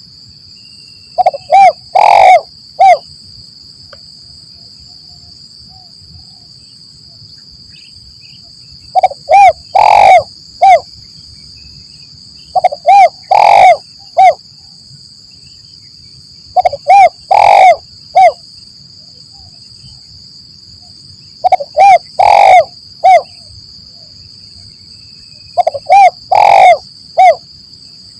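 Spotted dove (tekukur) cooing: six phrases of four or five short coos, each phrase with a longer, louder note in the middle, repeated every four to five seconds. A steady high-pitched tone runs underneath.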